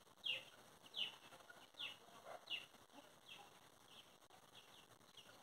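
Faint bird chirps: short high calls, each falling in pitch, repeated a little more than once a second and growing fainter toward the end.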